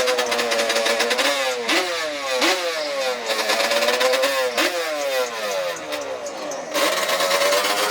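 Small off-road vehicle engine revving in repeated throttle blips, its pitch jumping up and sliding back down several times, then holding a steadier higher note near the end.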